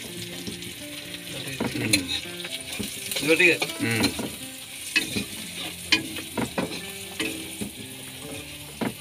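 Food sizzling as it fries in oil in a black wok (kadai), with a metal spatula stirring and scraping against the pan. The sizzle is a steady hiss, and the spatula adds several sharp scrapes and taps.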